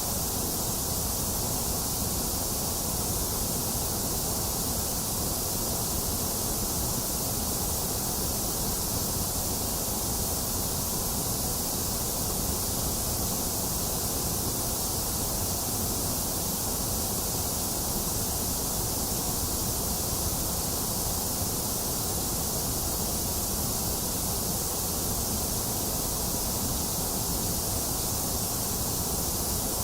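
Box fan running steadily, mixed with steady rain: an even, unchanging hiss with no separate drops, knocks or thunder.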